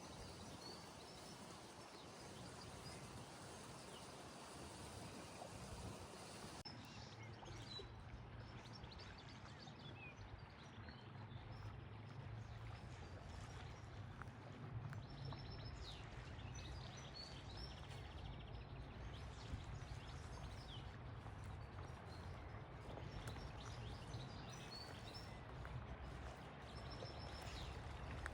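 Faint outdoor ambience: small birds chirping now and then over a steady hiss. A low, steady hum joins about seven seconds in.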